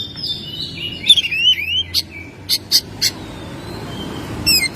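Oriental magpie-robin singing: varied whistled phrases with rising and falling notes, a few sharp clicks around the middle, and a quick run of repeated notes near the end.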